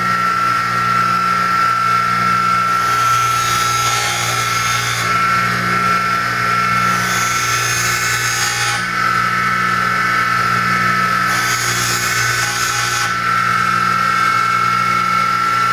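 A sharpening grinder running steadily with a high whine, as a woodturning tool is pressed against the wheel in three separate grinding passes of a couple of seconds each.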